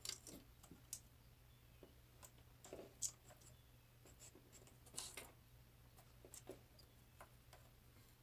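Faint, scattered light clicks and taps with soft rustling: small pieces of dollhouse trim and tools being handled on a work surface.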